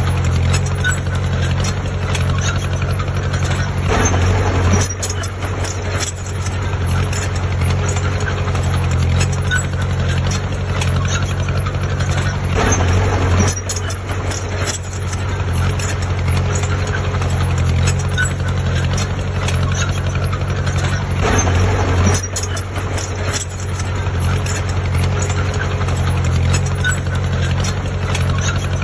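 Diesel engine of heavy earthmoving machinery running steadily, with a low hum and clatter. It swells louder three times, about every eight to nine seconds, as the machine works under load.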